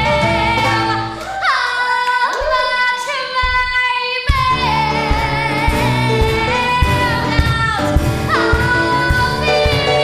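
A female voice singing over a recorded backing track, holding one long wavering note while the accompaniment drops out, before the backing comes back in.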